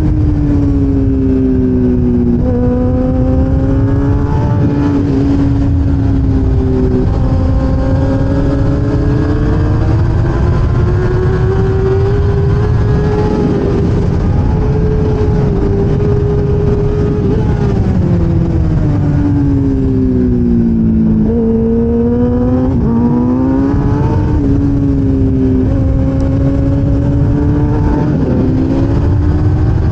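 A 1000cc racing motorcycle's engine heard onboard at race speed, its revs climbing and falling through gear changes and corners, with sharp drops in pitch on downshifts about two seconds in and twice near two-thirds of the way through. A heavy rushing noise runs beneath the engine.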